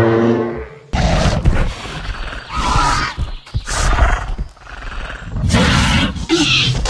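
A large animal calling loudly, a series of rough, noisy calls with short pauses between them.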